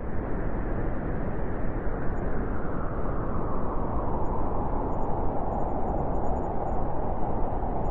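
Blizzard wind blowing steadily: a dense, even rush of noise that grows a little brighter toward the end.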